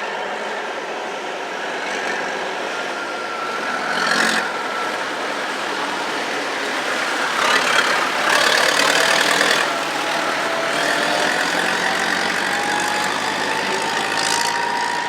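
Tractor engine running steadily, its pitch dipping and then slowly rising, with louder noisy surges about four seconds in and again for a couple of seconds around the middle.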